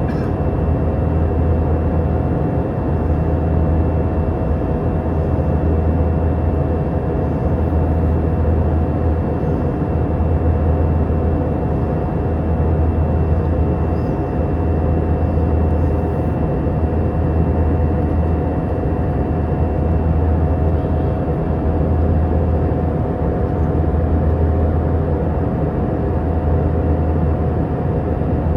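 Airbus A319 cabin noise in flight: a steady roar of engines and airflow heard from inside the cabin, with a low hum that swells and fades about every two seconds and a faint steady whine above.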